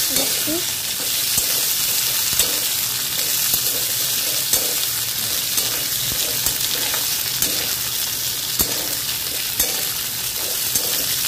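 Potato sticks sizzling in hot oil in a kadai, stirred with a metal spatula that scrapes and taps against the pan about once a second.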